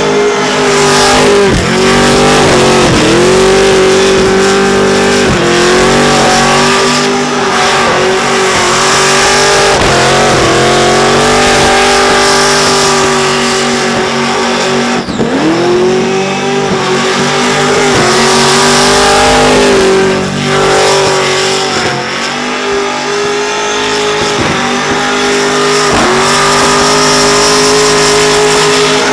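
Supercharged LSA V8 of a VK Commodore held at high revs during a burnout, with the tyres spinning. The revs drop briefly and climb back several times.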